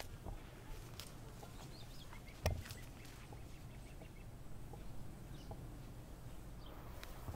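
Quiet outdoor ambience of faint bird chirps and light footsteps on a sandy path, with one sharp snap or knock about two and a half seconds in.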